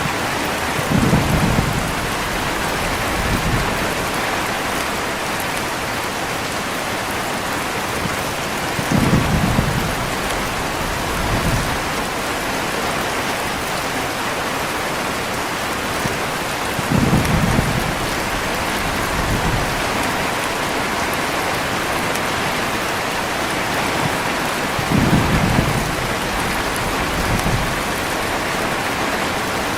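Steady heavy rain with thunder rumbling four times at even intervals, each rumble followed by a softer one about two seconds later.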